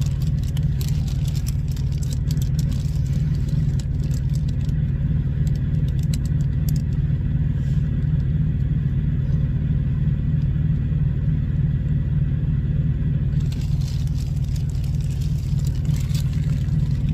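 Steady low engine rumble, like a vehicle running, with crackling rustles of packaging being opened in the first several seconds and again near the end.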